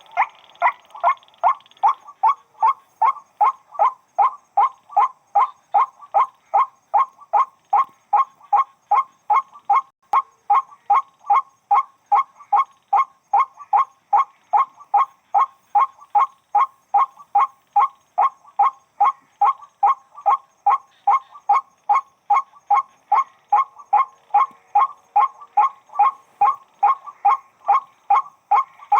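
White-breasted waterhen calling a long, unbroken series of short, nasal 'wak' notes, about two a second, very even in rhythm and loudness.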